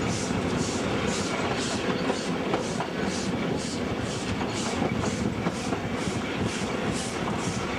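W-class steam locomotives double-heading a train, their exhaust chuffing in a steady rhythm of about two beats a second over the running rumble of the carriages on the track.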